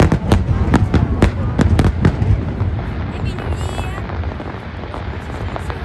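Fireworks exploding: a quick run of sharp bangs, several a second, for the first two seconds, then a continuous low rumble that slowly fades, with a brief high crackle about three and a half seconds in.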